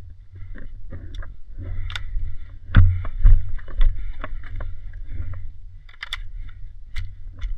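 Low rumble and rustling of movement, with scattered sharp clicks and knocks; the loudest knocks come about three seconds in.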